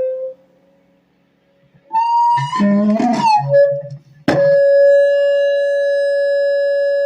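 A man doing a mock whale call into a cheap karaoke machine's microphone, heard through its speaker. After a short pause come wavering wails over a pulsing low buzz, then a sharp click and a long, steady held tone.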